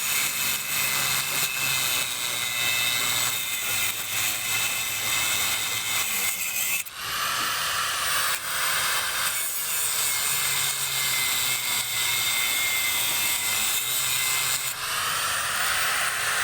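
A power tool running and cutting steadily with a high whine, briefly easing off about seven seconds in and then cutting again.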